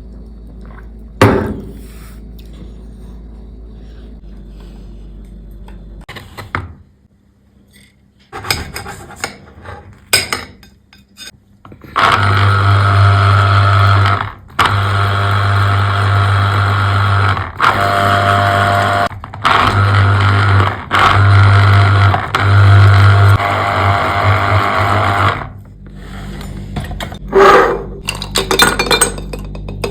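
A small electric kitchen appliance motor, such as a frother, mixer or coffee machine, runs loudly in several spells with short breaks over about 13 seconds. A sharp click comes about a second in, and glass clinks near the end.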